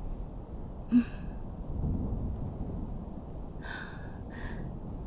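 A woman's soft sighs: a short voiced sigh about a second in and two breathy exhales near the end, over a steady low ambient rumble.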